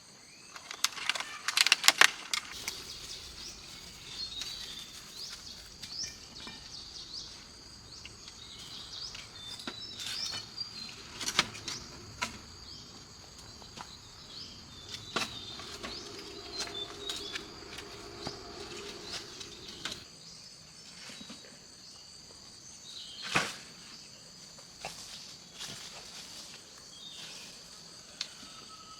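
Outdoor ambience of a steady high insect drone with scattered bird chirps. Sharp knocks and clicks come now and then, loudest a second or two in and again at about two-thirds of the way through.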